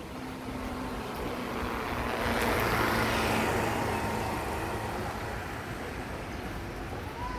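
A road vehicle passing by: engine and road noise swell to a peak about three seconds in, then fade away.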